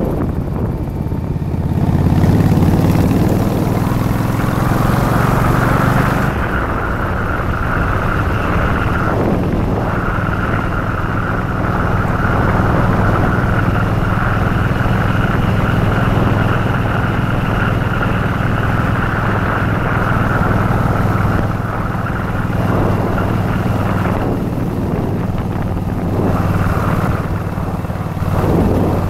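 Yamaha Virago XV1100's air-cooled V-twin engine running at a steady road speed while riding, with wind rushing over the microphone.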